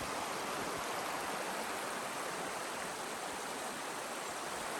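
Creek water rushing and splashing as a steady, even rush.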